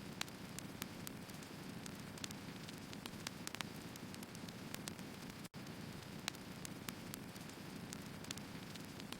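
Wood fire burning: a steady low rush of flames with frequent small, sharp crackles and pops from the burning logs, several a second.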